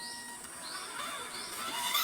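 Birds calling: short high rising chirps repeated about twice a second, and a louder call with several pitches near the end.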